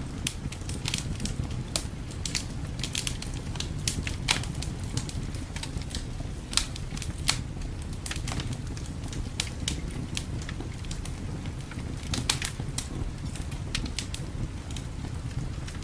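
Wood fire crackling in a fireplace, with irregular sharp pops and snaps a few times a second over a steady low rumble of winter wind.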